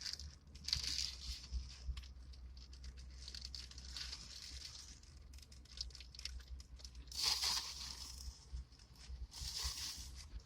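Intermittent crinkly rustling and crunching from eating a fried chicken sandwich: several short bursts, the loudest a little after seven seconds in.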